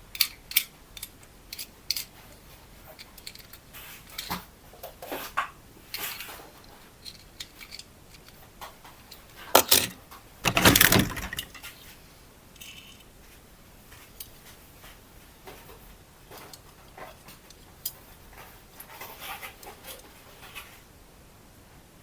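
Small hard objects being handled: scattered clicks, taps and light rattles, with a louder rustling scrape lasting a couple of seconds near the middle.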